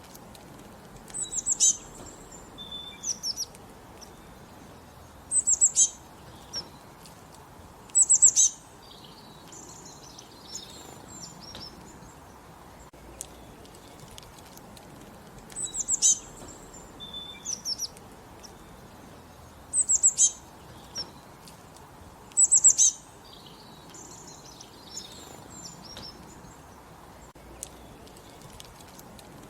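A songbird singing short bursts of rapid, high, down-slurred notes, repeated every few seconds over a faint steady background hiss.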